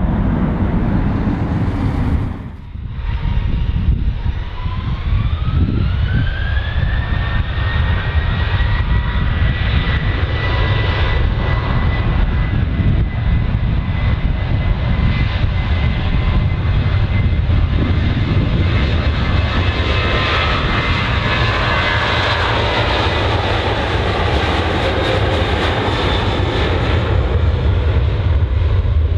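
Jet airliner's engines spooling up: a whine rises over a few seconds to a steady high pitch above a loud low rumble, then fades out near the end.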